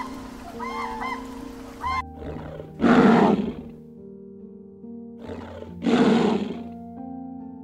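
Grey crowned cranes honking briefly, then a lion roaring: two long roars about three seconds apart, over soft background music with steady held tones.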